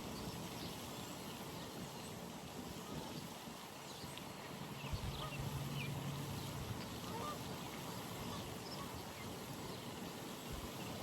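Pond ambience: faint small-bird chirps throughout, and one low, steady call lasting about two seconds, starting about four and a half seconds in.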